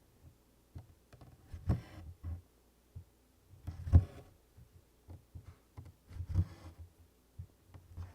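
Tent stitching on 24-count Congress cloth: a soft thump as the needle goes through the canvas and a brief rustle of DMC floss drawn through, three times about two and a half seconds apart, with faint small clicks between.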